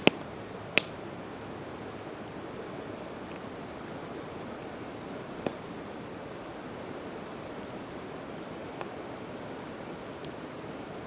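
Campfire of split evergreen wood crackling, with a few sharp pops over a steady rush of the river. A run of short, evenly spaced high chirps, about two a second, sounds through the middle.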